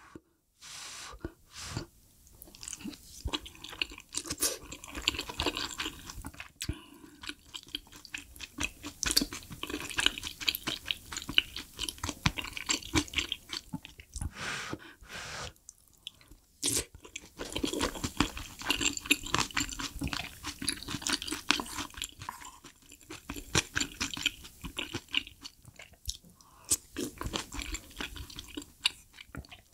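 A person chewing meat dumpling and spicy stew-soaked rice close to the microphone, with many wet mouth clicks. It comes in several bouts with short pauses between bites.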